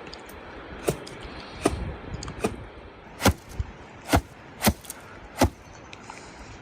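About seven sharp knocks in a row, roughly one a second, the later ones loudest.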